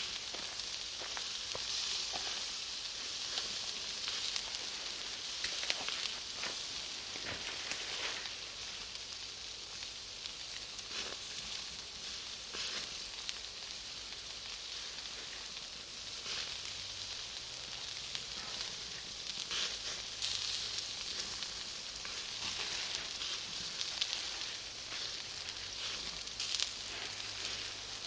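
Bonfire of firewood and Iwate cut charcoal crackling, with frequent sharp pops over a steady hiss.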